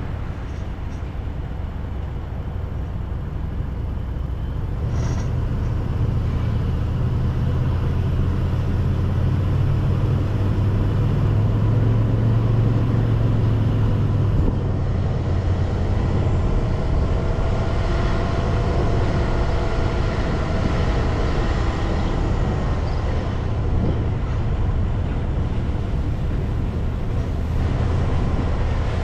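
A car being driven: a steady low rumble of engine and road noise that grows louder a few seconds in, with faint whining tones in the second half.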